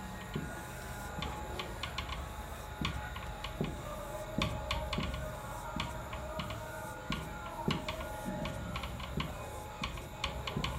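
Irregular light clicks and taps, often several a second, of a writing implement striking a writing surface as a diagram is drawn.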